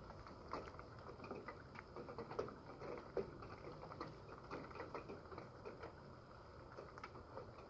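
Faint, irregular patter of raindrops, a few light ticks a second.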